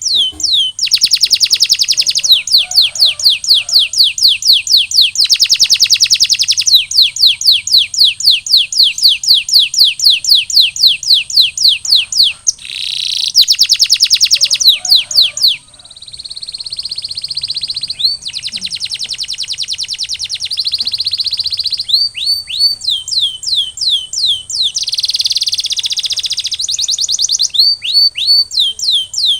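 Domestic canary singing in rapid trills of repeated down-slurred high notes, about ten a second. The trills come in tours separated by brief pauses, with a few smoother rolled passages between them.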